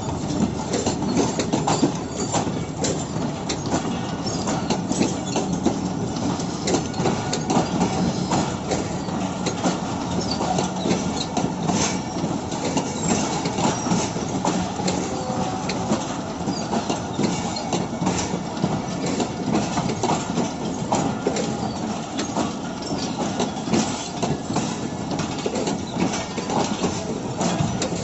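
Wheels of a passenger train rolling over rail joints and points, a continuous clatter of clicks and knocks on the track.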